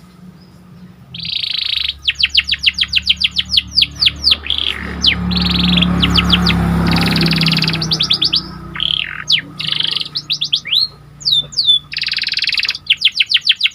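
Domestic canary (pied 'panda' canary) singing a long, continuous song of fast trills and buzzy rolls, with a low hum underneath in the middle.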